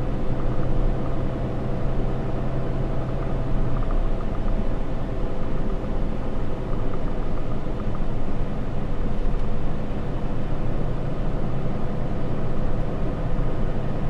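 Cabin noise of a Ram 3500 pickup on the move: the steady drone of its 6.7-litre Cummins inline-six turbo diesel under road noise. The engine note changes about four seconds in.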